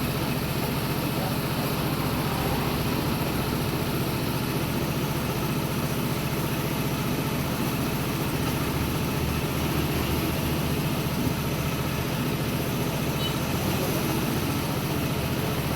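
A motor running steadily at an even speed, with a low, fast, regular pulsing hum and a steady hiss over it.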